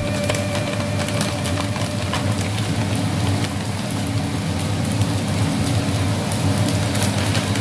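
Glutinous rice and chicken sizzling in a hot wok: a steady crackling hiss with frequent sharp pops.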